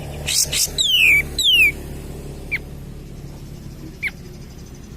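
Kapas tembak (pied triller) singing: a few sharp opening notes, then two loud whistles that slide down in pitch, followed by two short single notes later on.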